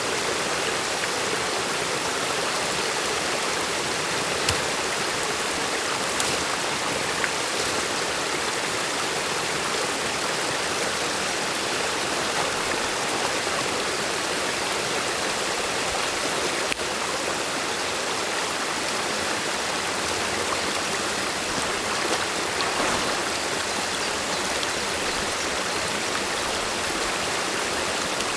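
Stream water rushing steadily through a beaver dam, with a few faint brief knocks.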